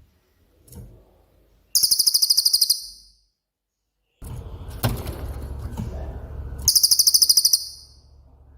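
Cililin songbird singing two fast, rattling trills of high notes, each about a second long, one about two seconds in and one near the end. A low background hum comes in midway.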